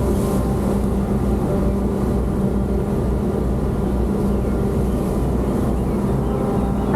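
A steady, low engine drone with a rushing noise over it, such as a car or ferry makes while under way.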